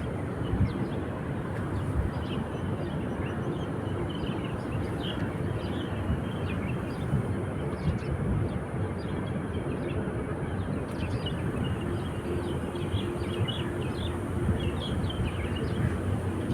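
Seashore ambience: a steady low rumble of sea and wind, with faint short high chirps scattered throughout.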